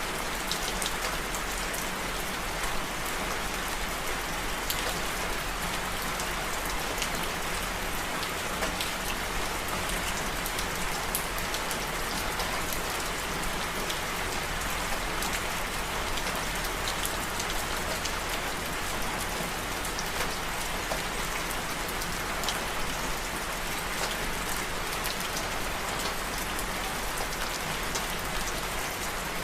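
Steady rain falling, with a dense patter of many small drop ticks that keeps an even level throughout.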